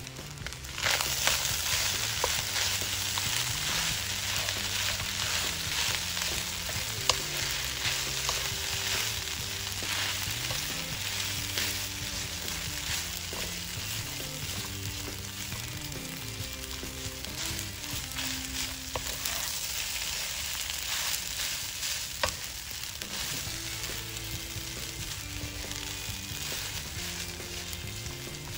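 Garlic fried rice (sinangag) sizzling in a hot pan while it is stirred and turned with a wooden spatula, with occasional scrapes against the pan. The sizzle starts suddenly about a second in.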